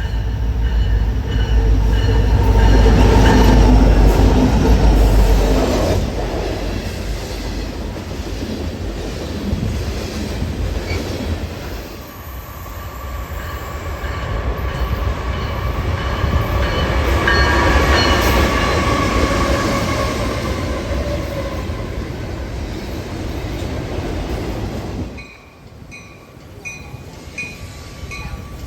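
A train passing close by: a heavy low rumble in the first few seconds, then the steady rolling noise of the cars with a faint held squeal through the middle. About 25 seconds in the sound drops suddenly, leaving a quieter run of evenly spaced ticks.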